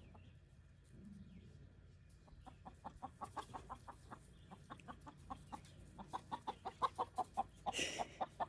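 Chickens clucking in quick, soft, repeated notes that start about two seconds in, with a brief scratchy burst near the end.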